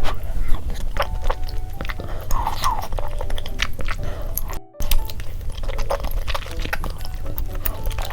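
Close-miked eating sounds: chewing with many sharp wet mouth clicks, over light background music. The sound cuts out briefly about four and a half seconds in.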